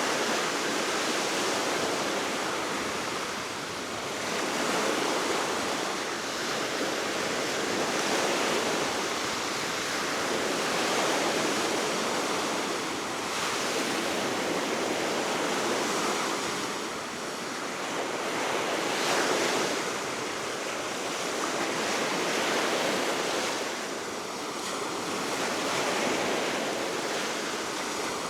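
Baltic Sea waves breaking on the shore below a cliff, an even rushing wash that swells and ebbs every two to three seconds, with steady wind blowing.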